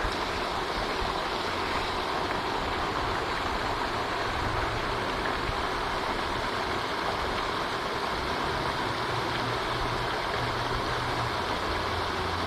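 Pond fountain spraying and splashing steadily, like running water, with a low hum underneath.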